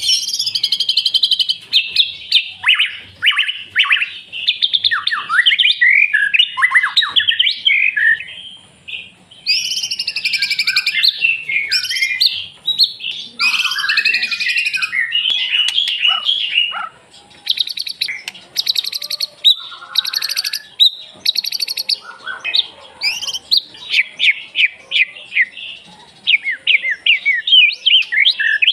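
White-rumped shama (murai batu) singing loudly: a long, varied run of quick whistles, chirps and trills, with four harsh buzzy rattles in a row about two-thirds of the way through.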